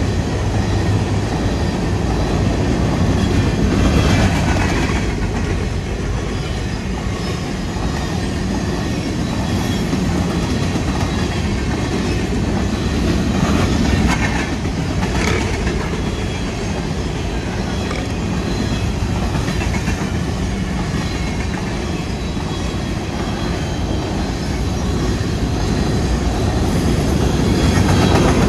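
Freight train of covered hopper cars rolling past close by at speed, steel wheels clattering on the rails in a steady rush. The noise swells a few times as cars go by.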